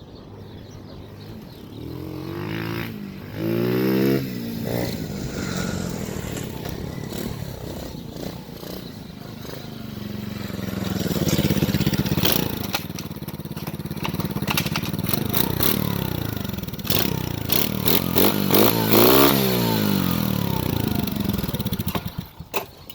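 110cc semi-automatic four-stroke pit bike engine being ridden, revving up and falling back several times as it climbs, with knocks and clattering from the bike over rough ground. The engine sound cuts off suddenly near the end.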